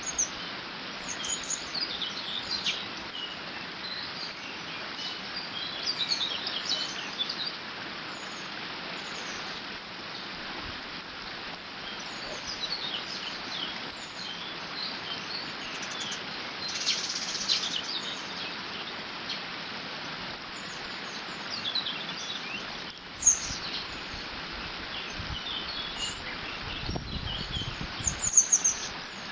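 Water flowing through a beaver dam with a steady rush, while small birds chirp and sing over it in short phrases, with one denser trill about halfway through. A brief low rumble of wind comes near the end.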